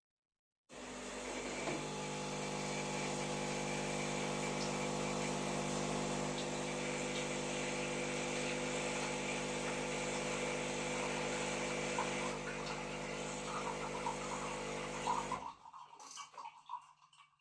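Espresso machine brewing: its pump hums steadily for about fifteen seconds, then cuts off suddenly, followed by a few faint sputters and crackles.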